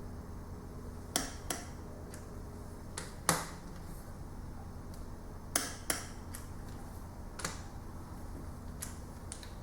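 Scattered sharp metallic clicks and knocks of hand tools on engine parts during bench assembly, about nine in all and some in quick pairs, over a steady low hum.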